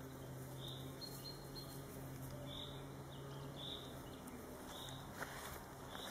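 A bird chirping in short, evenly repeated calls about once a second, over a faint steady low hum. There are a couple of faint rustles about five seconds in.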